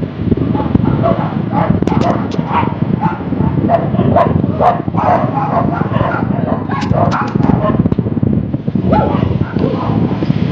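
A dog barking, a quick string of short barks over a steady low rumble.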